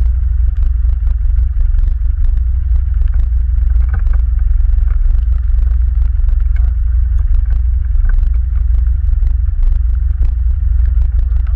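ATV riding over rough forest ground: a steady, loud low rumble of the engine and drive, broken by many short knocks and rattles from the bumpy track.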